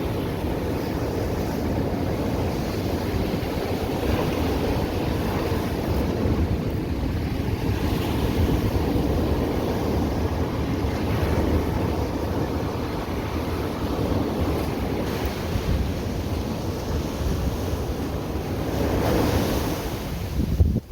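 Ocean surf washing continuously onto a beach, with a bigger wave surging near the end.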